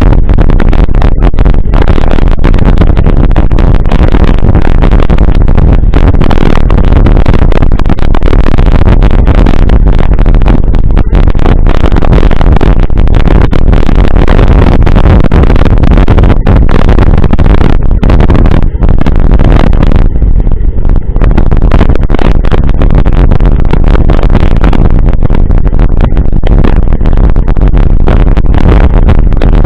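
Wind buffeting the microphone of a camera on a moving bicycle: a loud, distorted rumble that is heaviest in the low end, with a brief dip about twenty seconds in.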